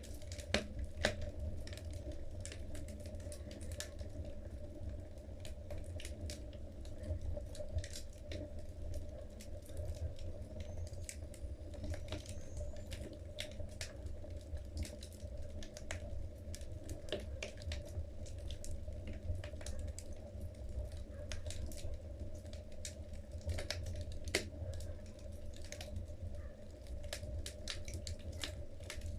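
Wood logs burning in a fireplace, crackling with irregular sharp pops and snaps over a steady low background.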